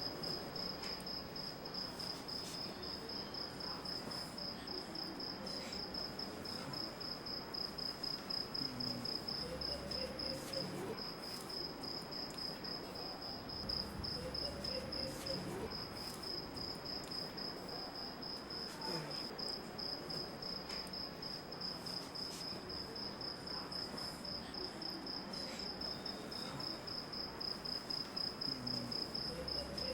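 A cricket chirping steadily in rapid, even pulses at one high pitch, breaking off briefly twice, over a faint background noise.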